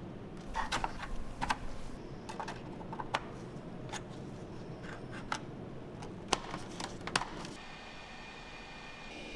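Scattered sharp clicks and taps of small hard parts being handled, then a steady high whine that starts about three-quarters of the way through.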